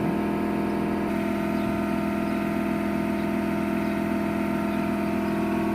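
An engine idling steadily with an even drone, its tone shifting slightly about a second in.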